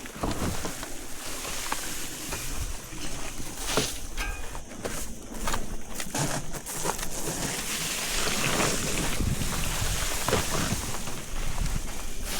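Wind buffeting the microphone, with scattered clicks and rustling throughout.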